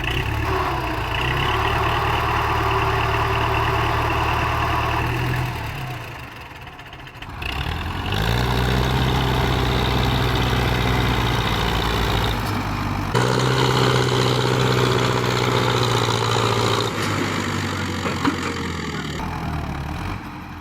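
Belarus MTZ-50 tractor's four-cylinder diesel engine running hard. It drops off briefly about six seconds in, then revs back up and holds steady.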